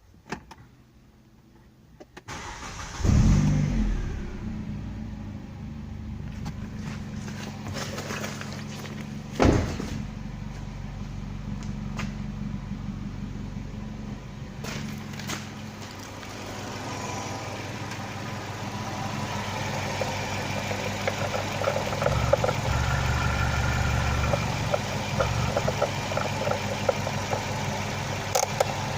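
Hyundai G4GC 2.0-litre inline-four engine started up about three seconds in, then idling steadily, with one brief loud burst about nine seconds in.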